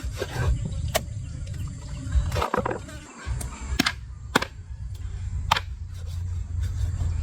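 Sharp knocks, roughly one a second and unevenly spaced, over a steady low rumble.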